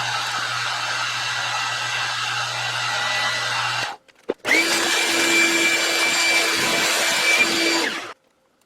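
Shop power tools running steadily: one machine runs until just before 4 s and stops abruptly; after a click, another starts and runs with a steady whine until it cuts off about 8 s in.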